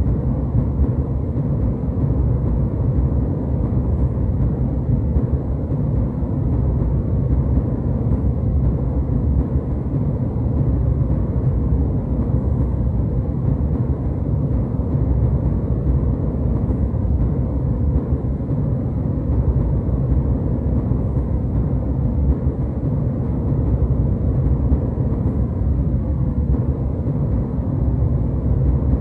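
Jet airliner cabin noise in flight: a steady, unbroken low rumble, heavy in the bass.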